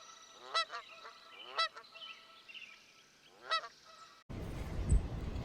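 Geese honking, a few separate calls. Then the sound cuts off abruptly to a steady rushing noise with a low thump near the end.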